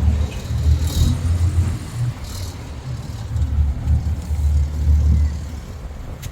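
Low engine rumble from a small passenger motorboat, swelling and easing, with a couple of faint knocks.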